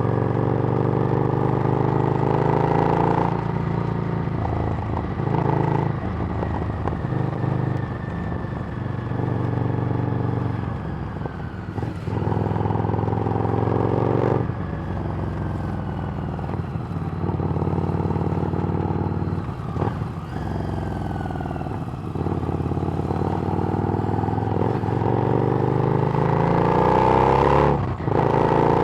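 Harley-Davidson Street Rod's V-twin running under way through a Screamin' Eagle exhaust. The engine note rises and falls with the throttle, dropping briefly several times and climbing again.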